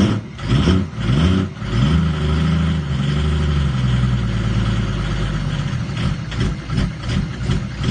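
Engine being warmed up after a cold start: a few quick revs in the first two seconds, then it settles to a steady idle that turns uneven near the end.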